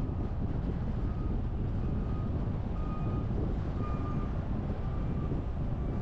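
Steady wind and road rumble of a car driving, with faint short high beeps about once a second.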